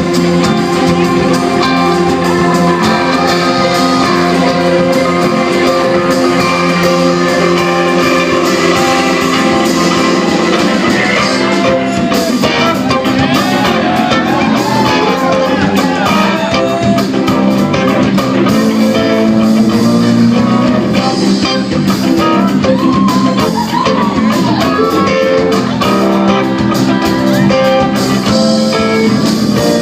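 Live rock band playing, with guitars to the fore, as heard from the audience in a hall.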